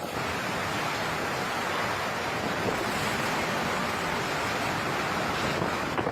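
Hurricane wind and surf: a steady, even rushing noise that starts and stops abruptly.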